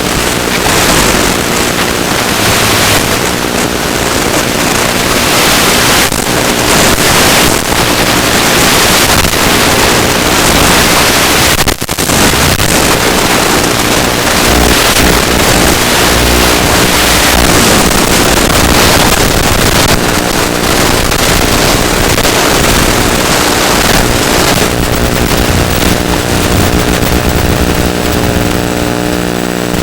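Wind rushing over the microphone with the steady drone of a ZOHD Drift's electric motor and propeller beneath it, whose pitch lines grow stronger near the end. The sound cuts out briefly about twelve seconds in.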